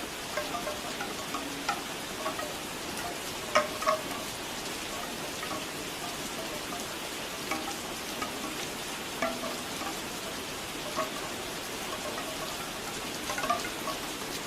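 Steady rain, with bamboo wind chimes knocking together now and then; the loudest clusters of knocks come about four seconds in and again near the end.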